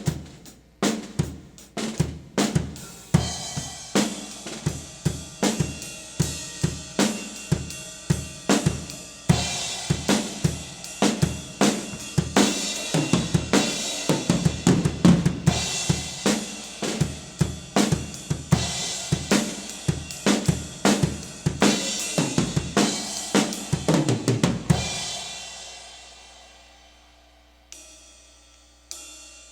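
Drum kit with an 18-inch Wuhan Lion china cymbal and Armada Shamman B10 cymbals, played in a fast groove of snare, bass drum and cymbal strikes. The playing stops about 25 seconds in, the cymbals ring out and fade, and two light cymbal taps follow near the end.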